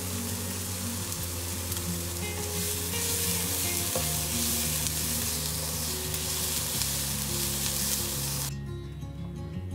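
Chicken mince and chopped red onion sizzling in a non-stick frying pan as minced garlic is tipped in and stirred through with a spatula. The sizzle stops abruptly near the end.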